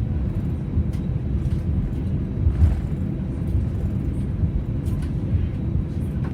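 Steady low rumble inside an Airbus A320's cabin on the ground before takeoff, with a few faint clicks.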